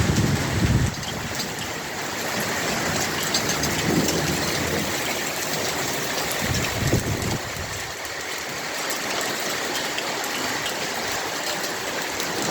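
Heavy rain falling with a steady hiss. Brief low rumbles come in near the start, about four seconds in and again about seven seconds in.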